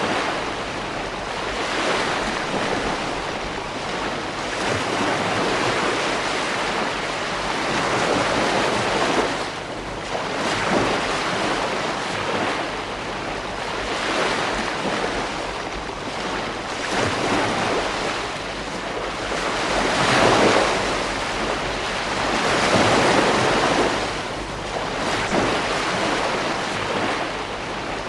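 Ocean waves breaking and washing on a beach, the surf swelling and falling every few seconds, with wind buffeting the microphone.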